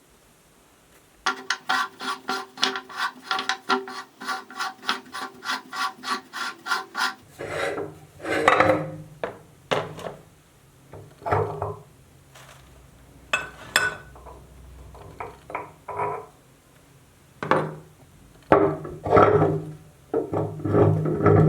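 Meat grinder grinding cake, with rasping, squealing rubs. A fast even run of about five strokes a second starts about a second in and lasts some six seconds, then breaks into irregular single squeals and rubs.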